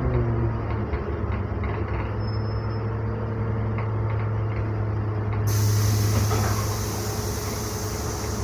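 NefAZ-5299 city bus engine, heard from inside: its note drops slightly as the bus slows, then it holds steady. About five and a half seconds in, a loud hiss of compressed air from the bus's pneumatic system starts suddenly and continues.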